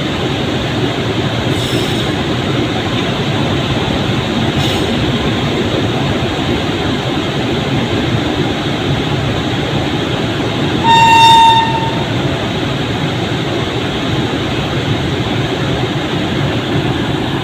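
A train running past on the track, a loud steady rush of wheel and track noise, with one short horn blast about two-thirds of the way through.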